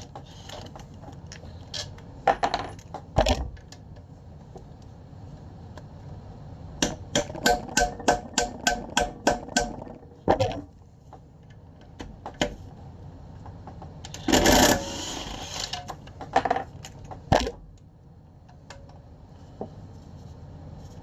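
Metal parts clinking and knocking, with a quick run of about a dozen ringing clicks in the middle and a couple of longer, louder clatters.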